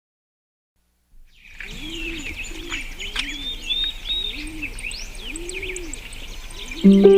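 After about a second of silence, small birds chirping and twittering, with a dove cooing over and over, roughly once a second.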